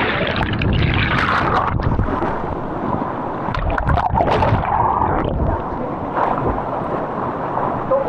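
Waterfall rushing: a continuous noisy roar of falling water with a few brief surges.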